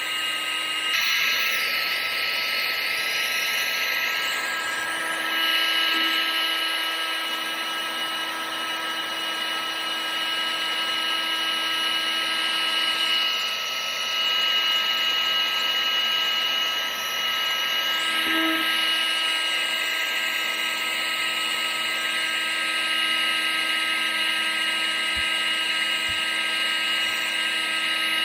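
Vacuum cleaner motor running steadily: a continuous high-pitched whine with a few fixed tones over a hiss.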